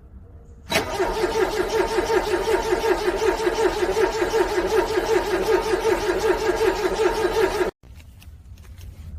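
Car engine being cranked over by its starter in freezing cold without firing: an even, rhythmic churning pulse that starts suddenly about a second in and cuts off abruptly near the end without the engine catching.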